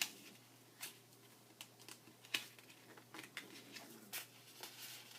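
Paper-craft handling: scattered light clicks and taps with faint rustling as paper pieces are handled and pressed together on the work surface. The sharpest click comes about two seconds in.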